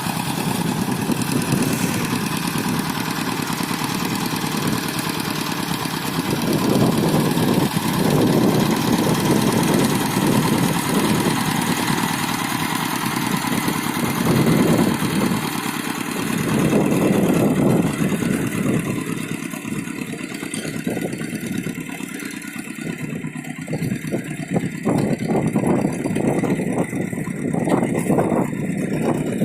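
Rice-field hand tractor's engine running continuously, swelling louder several times as it is worked. Toward the end, separate knocks and rattles stand out more.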